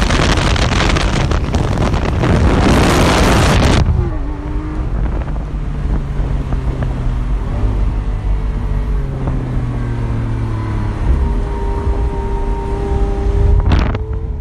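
Lamborghini Aventador SV Roadster's V12 at speed with wind rushing over the open roof, loud and dense. It cuts off suddenly about four seconds in to the engine heard from inside the cabin, quieter and cruising, its note dropping a little and then holding steady, with a brief knock near the end.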